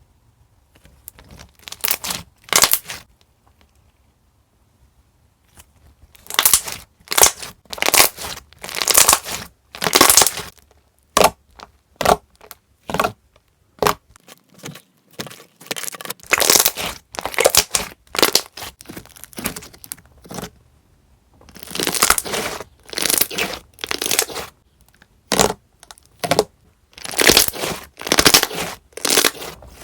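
Thick, puffy slime being squeezed and pressed by hand, giving clusters of short wet popping and crackling sounds with brief pauses between handfuls.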